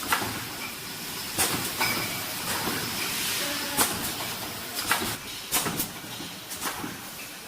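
Automatic bottle screen printing machine running: sharp mechanical clacks about once a second, unevenly spaced, over a steady air hiss from its pneumatic actuators.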